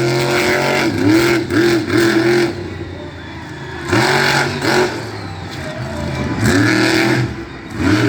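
Monster truck engine revving hard in repeated bursts, about five times, each rev climbing quickly and holding before dropping back, with quieter lulls about three and six seconds in.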